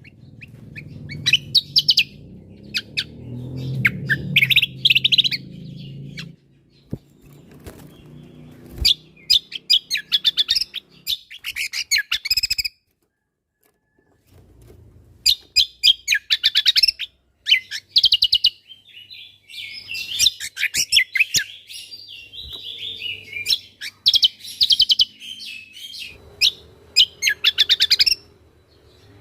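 Cucak kombo (kecial kombo, Javan grey-throated white-eye) singing in repeated bursts of fast, sharp chirps and rattling phrases, the 'tembakan' fills used to train other songbirds. The song breaks off into a moment of complete silence about halfway through, then resumes.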